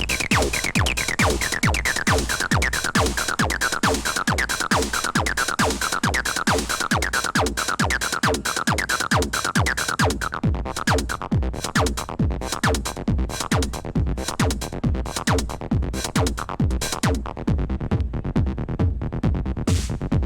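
Techno from a DJ set: a steady four-on-the-floor kick drum at about two beats a second, with a high repeating synth figure that slowly falls in pitch and drops out about halfway through, leaving the drums.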